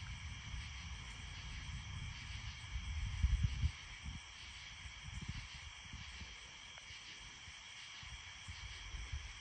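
A steady chorus of night insects, crickets or katydids, chirring. Irregular low rumbles are loudest about three seconds in and then die down.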